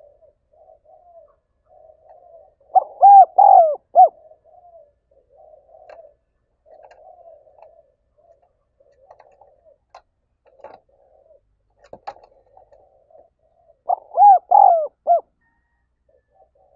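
Spotted dove cooing: two loud phrases of about four notes each, one about three seconds in and another near the end, with softer, fainter cooing in between.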